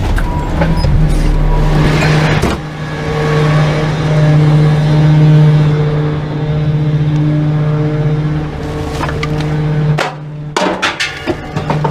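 Garbage truck engine running with a steady hum, noisier for the first couple of seconds. Several sharp knocks and clatter start about ten seconds in.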